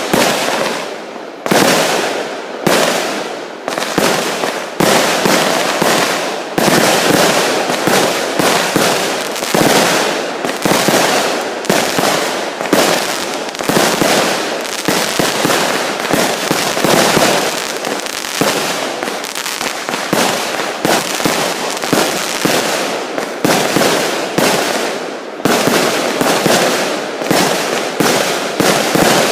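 Fireworks and firecrackers going off, loud sharp bangs in rapid succession. For the first few seconds the bangs come about once a second, then they pack together into a near-continuous run of explosions.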